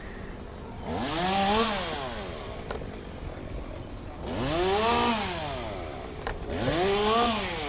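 Two-stroke chainsaw revved three times: each rev climbs in pitch and drops back toward idle, with the saw running at a lower idle between revs.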